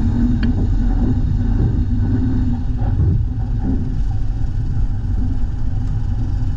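Dump truck engine running steadily with a low rumble.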